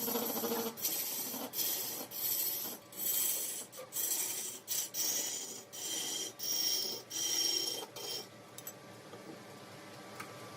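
A tool rasping against mahogany turning on a woodworking lathe, in about nine short strokes roughly a second apart. The strokes stop a little over two thirds of the way through, leaving a quieter steady running sound.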